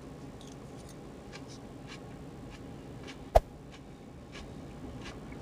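A person chewing a mouthful of coleslaw, with faint mouth clicks and small ticks over a quiet steady background hum, and one sharp click about three and a half seconds in.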